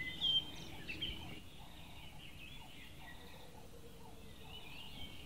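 Birds chirping in the background: short high chirps, busiest in the first second or so, then fainter and scattered, over a low steady outdoor background noise.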